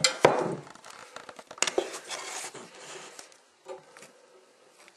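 Handling noise of a camera being set down and positioned: clicks, knocks and rustling against the microphone, loudest in the first two seconds, dying away with a single light knock near the end.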